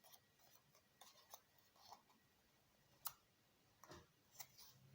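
Faint crinkles and light clicks of origami paper being handled and creased by hand, with one sharper crackle about three seconds in.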